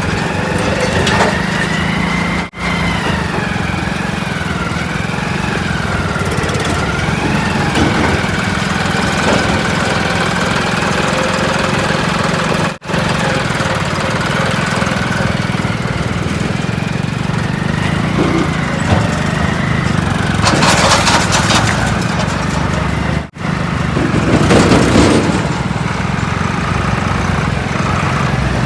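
Heavy diesel machinery running steadily, with a wavering high whine over the engine in the first half. Three brief dropouts break the sound, and a louder rushing, scraping burst comes about two-thirds of the way through.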